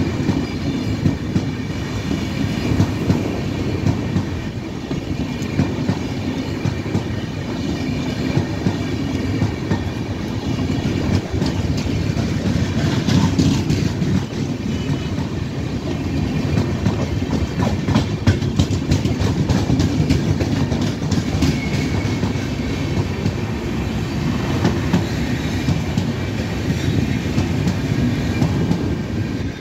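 Himsagar Express passenger coaches rolling past close by: a steady rumble of steel wheels on the rails, with the clickety-clack of wheels over rail joints, thickest in the middle.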